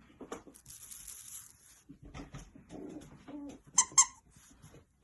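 A toy crinkles and rustles as puppies play with it, and then a squeaky dog toy gives two short, sharp squeaks about a fifth of a second apart near the end.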